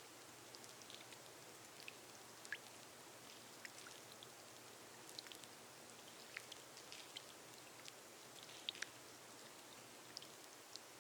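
Gentle rain falling on a glass roof: a soft, steady hiss with many separate drops ticking at random, a few of them sharper than the rest.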